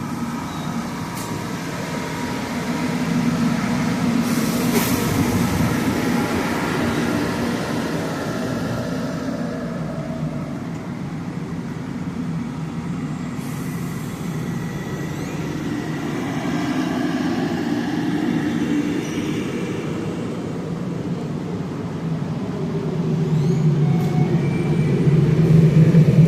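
Steady low vehicle rumble that swells and eases slowly.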